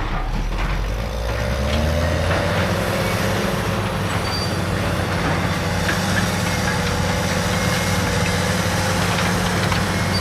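CAT D6R dozer's C9 diesel engine revving up in the first couple of seconds and then running steadily under load, with a whine alongside it.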